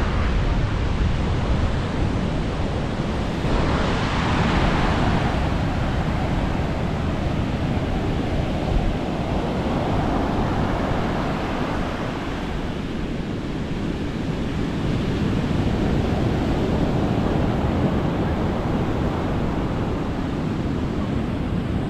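Sea waves breaking and washing up a beach, the surf swelling and fading every few seconds, with wind buffeting the microphone.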